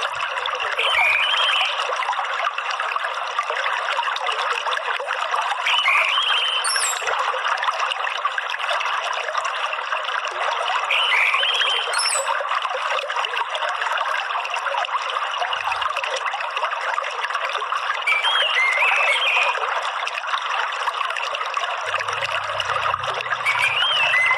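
Steady trickling, running water, with a bird's short curved chirps breaking in every five or six seconds.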